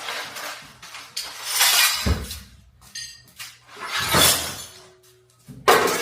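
Broken glass and debris crunching and clinking in four short bursts about two seconds apart, with a dull thump about two seconds in.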